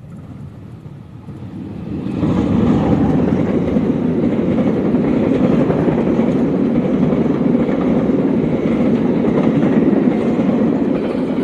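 Passenger train passing close by, hauled by a diesel locomotive: it grows louder over the first two seconds, then the coaches and baggage cars run past with a loud, steady rumble of wheels on rails that starts to ease off at the very end.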